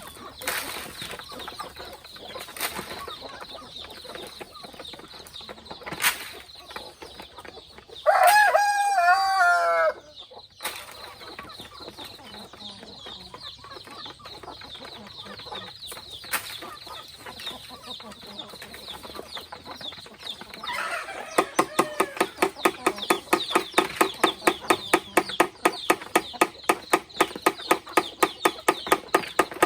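Free-range chickens around a forest farm, with one rooster crowing loudly for about two seconds about a third of the way in. In the last third a fast, even rhythm of short sounds starts, about five a second.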